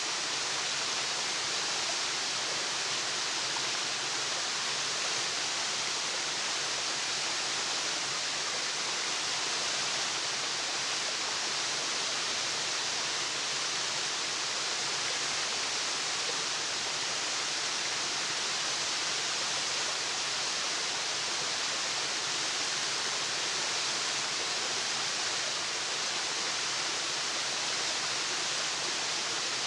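Waterfall: a steady rush of falling water, even and unchanging, with most of its hiss in the upper range.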